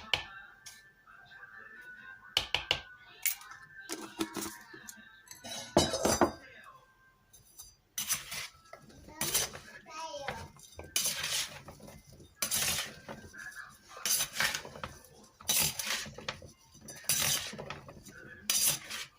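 Cutlery clinking and scraping against dishes. A few sharp clicks come first, then from about the middle a run of repeated scraping strokes, about one every second and a half.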